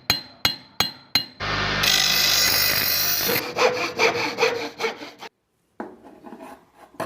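Metalworking by hand: a few sharp ringing hammer blows on metal in quick succession, then about two seconds of harsh continuous rasping. After that come rhythmic back-and-forth strokes of a hand tool on steel, about four or five a second, which stop abruptly and then resume more softly.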